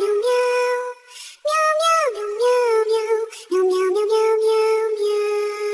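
A high, child-like synthetic voice singing a short melody in held notes and downward slides, in three or four phrases with brief breaks. A single line, with no other instrument.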